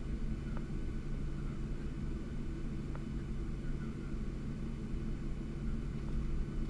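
Steady low drone inside a Boeing 737-700 cabin, with a constant low hum.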